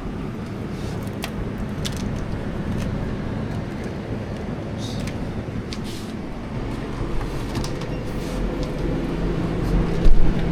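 Steady motor-vehicle noise: a car engine running with a low hum, with a few faint clicks.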